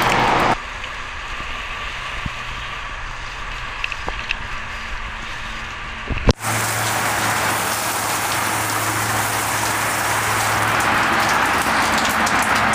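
Rinse water spraying onto a vinyl awning. The spray cuts off about half a second in and comes back after a sharp thump about six seconds in, with a steady low engine hum underneath.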